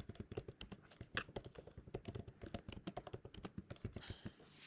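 Rapid typing on a computer keyboard, a fast run of keystrokes that stops about four seconds in.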